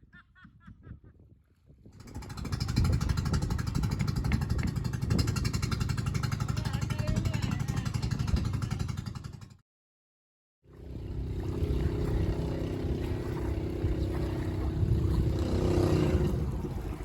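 Small boat's engine running steadily and loudly. The sound drops out abruptly for about a second midway, then resumes.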